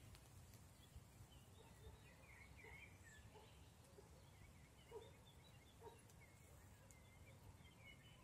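Faint woodland birdsong: small birds chirping and twittering, with a few short lower calls about five and six seconds in, over a low background rumble.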